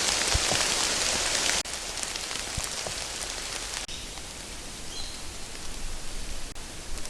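Steady rain-like hiss with a few faint clicks; it drops abruptly to a lower level about one and a half seconds in, and again near four seconds.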